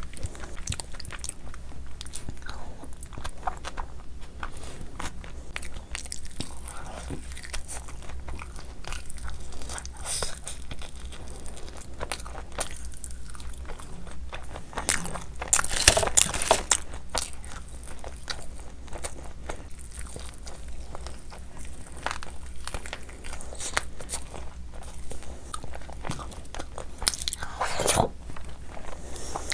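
Close-miked chewing and wet lip-smacking of a person eating soft vegetable khichdi by hand, with many small clicks of the mouth. The sounds grow louder for a couple of seconds about halfway through and again near the end.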